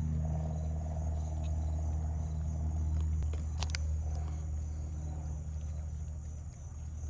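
Steady low hum, as from running machinery or an idling engine, with a thin steady high whine over it and one sharp click about three and a half seconds in.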